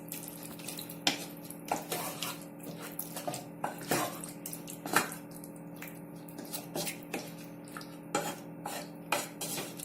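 A spoon stirring chicken curry in a cooking pot, knocking and scraping against the pot at irregular moments, over a steady low hum.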